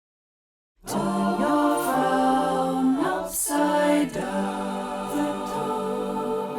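Opening music: wordless voices singing sustained chords in harmony, coming in about a second in after silence and moving from chord to chord.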